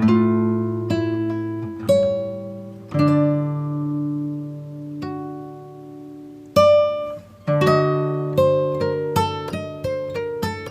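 Background music on acoustic guitar: single plucked notes ringing out slowly, then a quicker run of picked notes through the second half.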